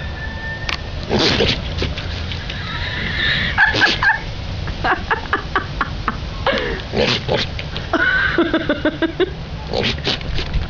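Goats bleating, several loud wavering calls that change in pitch, over a steady low rumble.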